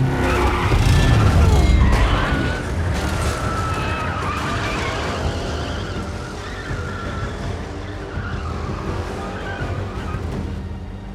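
Action-film car-chase sound mix: vehicle engines running hard and tyres screeching, over a music score. A deep rumble is loudest in the first two seconds.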